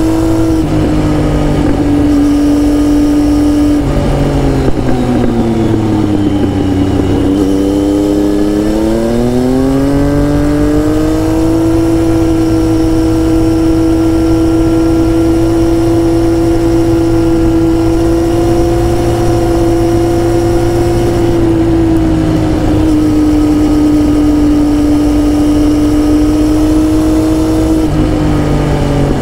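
Triumph Tiger 1050 motorcycle's three-cylinder engine running under way at steady revs. The revs drop for a couple of seconds about five seconds in, then climb back up and hold a little higher, easing off slightly twice towards the end.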